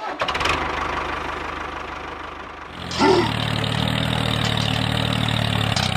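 A small engine idling steadily, with a few clicks at the start. The running sound jumps abruptly louder about three seconds in.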